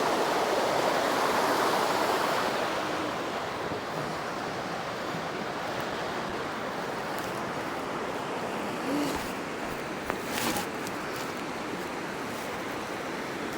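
Steady outdoor rushing noise, heavier for the first two seconds or so and then even, with a few faint knocks about two-thirds of the way through.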